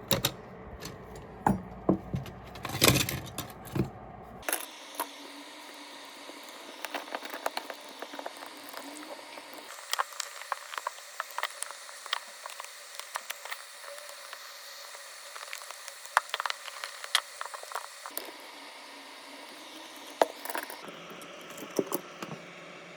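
Irregular light clicks and ticks of small tools on the plastic housing and parts of wireless headphones being taken apart. There is a denser run of louder crackly clicks in the first few seconds.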